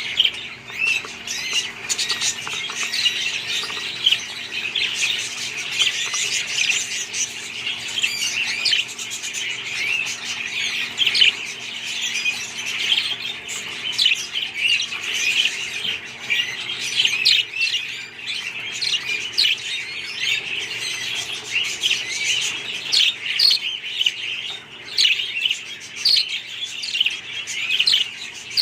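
A flock of budgerigars chirping and chattering all at once: a dense, continuous twittering of many short high calls with occasional squawks.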